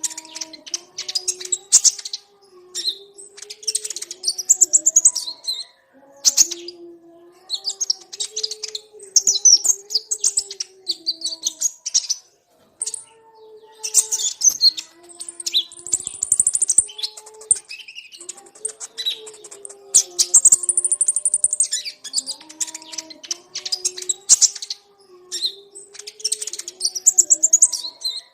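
Konin (ruby-cheeked sunbird) singing: rapid, high, scratchy twittering in phrases of one to three seconds with brief pauses between them. A low, wavering hum runs underneath the whole time.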